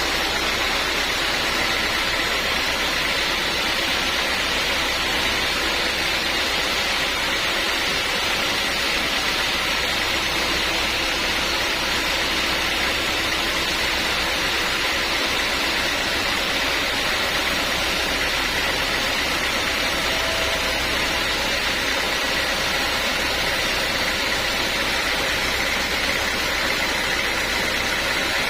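Sawmill machinery running steadily, a constant mechanical noise with a faint high whine and a low hum, unchanging throughout.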